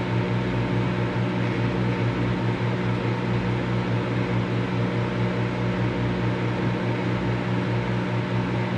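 Microwave oven running: a steady low electrical hum with an even whirring noise over it.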